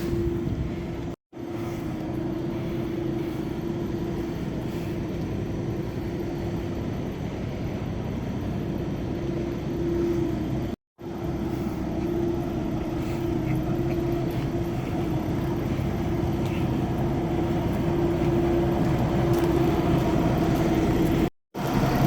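Semi truck's diesel engine running steadily, a low hum with a steady drone over it. The sound drops out completely for an instant three times.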